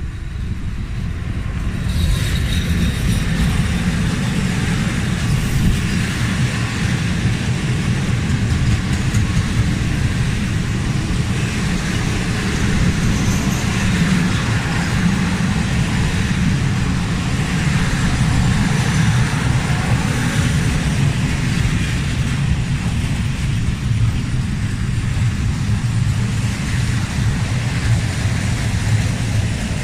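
Train running past, a steady rumble with hiss that grows louder about two seconds in and then holds.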